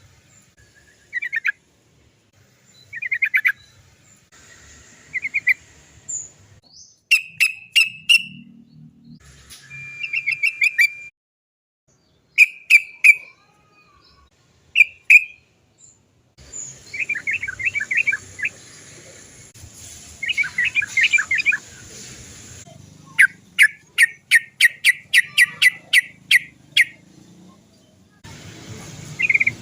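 Yellow-vented bulbul (trucukan) calling in short bubbly chattering phrases and repeated 'cok cok cok' notes, ending in a fast run of sharp notes about four a second.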